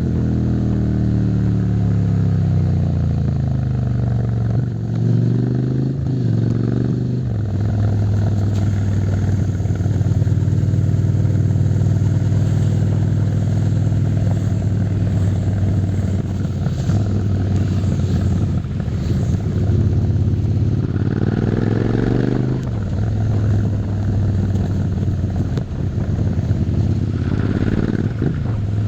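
Suzuki SV650's V-twin engine under way, its pitch falling as it slows at first, then rising with a rev, holding steady for a long stretch, and rising and falling twice more as the throttle is opened and closed.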